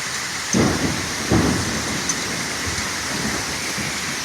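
Heavy rain pouring steadily, with two brief low booms about half a second and about a second and a half in.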